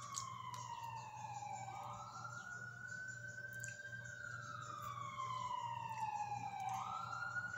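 Faint emergency-vehicle siren wailing, its pitch sliding slowly up and down, about one rise and fall every five seconds, over a steady low hum.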